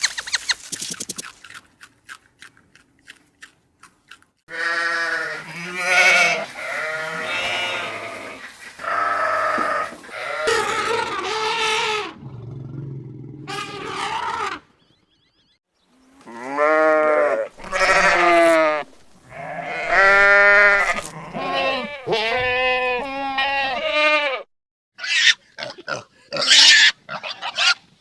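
Bleating farm animal: long, wavering calls one after another, in two runs with a short pause about halfway.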